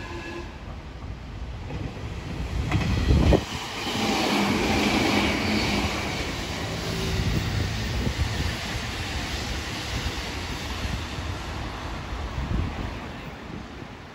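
Two electric commuter trains running side by side on parallel tracks: a Meitetsu 6500 series passes close by and a JR 313 series runs on the far track. Their running noise builds to its loudest about three to six seconds in. It then fades as both trains draw away.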